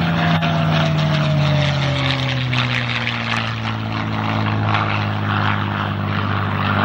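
Propeller-driven piston warbird flying past. Its engine note drops in pitch as it goes by, then holds steady.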